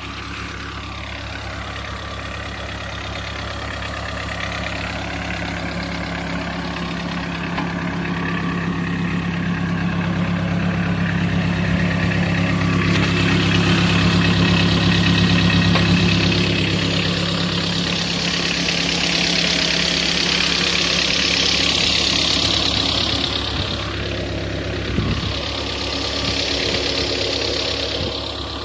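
Homemade tractor's engine running steadily while ploughing, getting somewhat louder towards the middle. A rushing hiss swells up twice in the second half.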